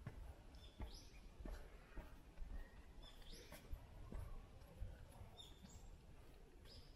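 A bird calling three times, about two and a half seconds apart, each call one short rising note, over faint footsteps on a wet footpath.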